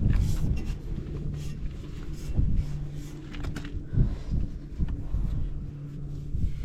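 Buell X1 Lightning's air-cooled V-twin idling steadily with a low, pulsing rumble, running without abnormal noises. Wind buffets the microphone now and then.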